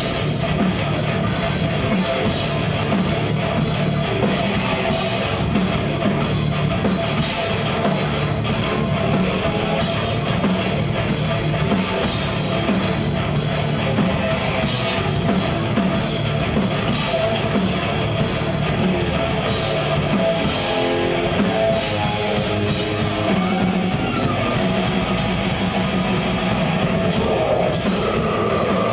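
Live metal band playing: distorted electric guitars, bass and a fast drum kit, at a steady, loud level with no breaks.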